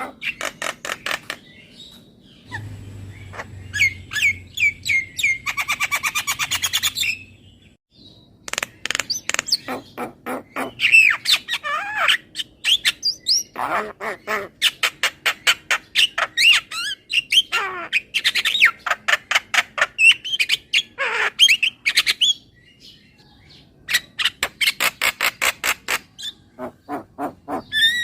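Javan myna (jalak kebo) calling: fast runs of sharp chattering clicks mixed with harsh squawks and gliding whistles, with a buzzy rattle a few seconds in and a short pause near the end.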